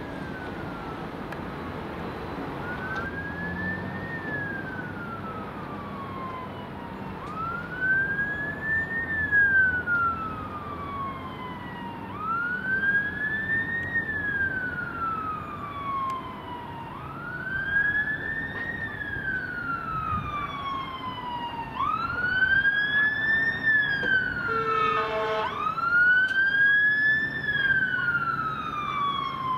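Emergency vehicle siren wailing, a slow rise and longer fall repeating about every five seconds and growing louder as the vehicle approaches. A short horn blast sounds about 25 seconds in, and near the end the siren's sweeps quicken.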